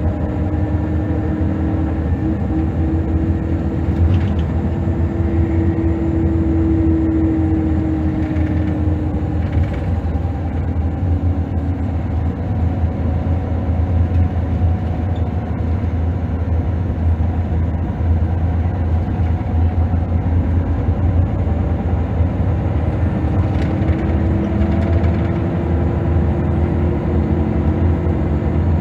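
The Scania DC9 diesel of a 2005 Scania L94UB city bus driving under way, a steady low drone, with a driveline whine from the ZF Ecomat automatic that rises and fades twice.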